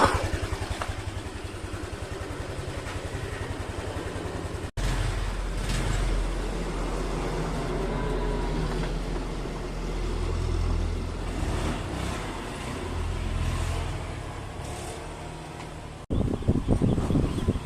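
Honda Vario 150 scooter engine running, heard in three cut-together stretches: a fast even pulse at first, then a deeper rumble whose level swells and eases a few times, then the quicker pulse again.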